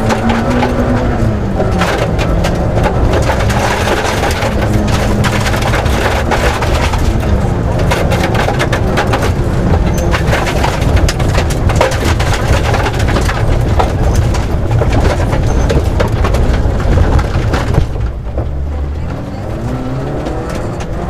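Rally car engine pulling hard at speed, with dense clicks and cracks of stones striking the car throughout. The engine pitch dips briefly a few times and falls away about 18 seconds in, then climbs again near the end.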